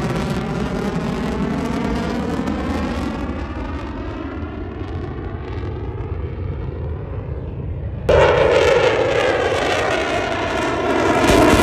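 Airplane flying past, its engine roar sweeping in pitch as it moves. The sound jumps suddenly louder about eight seconds in and swells again near the end.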